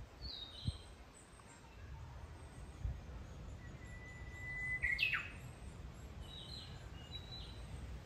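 Japanese bush warbler (uguisu) singing its song once, about halfway through: a long held whistle, then a quick sharp flourish. Short high chirps come near the start and again near the end.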